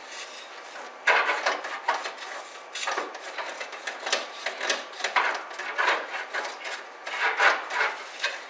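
A length of line pushed down into a nearly empty car fuel tank and scraped back and forth along the tank bottom: a run of irregular scraping strokes starting about a second in, done to bring up any rust or crud.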